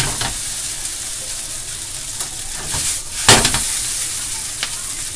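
Noodles and cabbage sizzling steadily in a hot nonstick frying pan on a gas flame, with a brief louder rush of noise about three seconds in.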